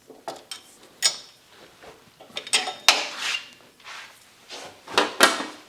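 Irregular metallic clinks, rattles and scrapes from hydraulic hoses and their metal fittings being handled and pulled against the tractor's steel, with the loudest knocks about a second in, around three seconds in, and near the end.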